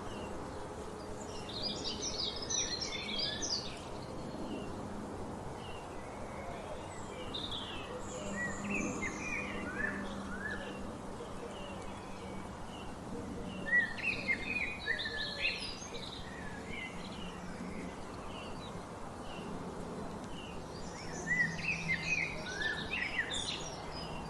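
Wild songbirds singing: four bursts of rapid, high chirping phrases of two to three seconds each, over a steady outdoor hiss.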